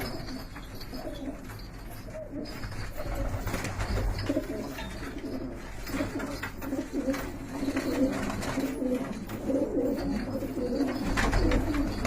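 Domestic pigeons cooing, several low warbling coos overlapping and continuing throughout, louder in the second half.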